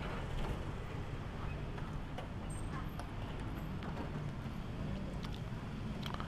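Motorcycle engine idling steadily, with a few faint clicks and knocks over it.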